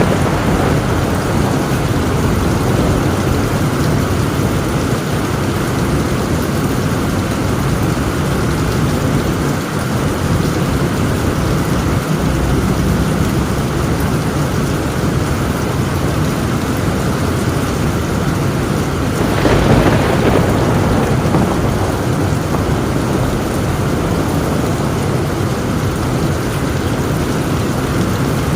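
Heavy rain drumming steadily on a tin roof, with a thunderclap breaking out about two-thirds of the way through.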